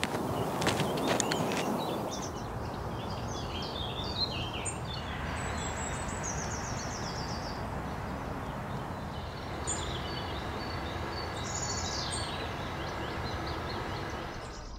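Outdoor ambience: small birds chirping and singing in short phrases over a steady background hiss, with a few sharp knocks in the first couple of seconds.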